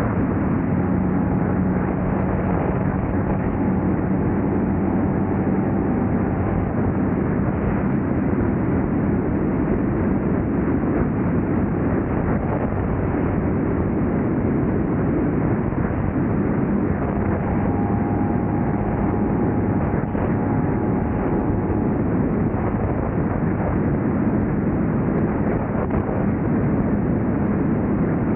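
2000 Honda Civic's D-series four-cylinder engine running under way, with steady road and wind noise. The engine note holds steady for several seconds twice, near the start and past the middle.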